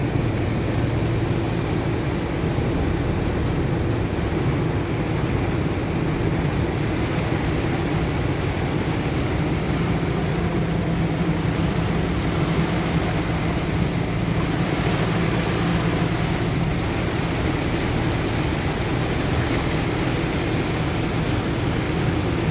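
Truck driving slowly through deep floodwater, heard from inside the cab: a steady engine hum under a constant rush of water washing against the truck.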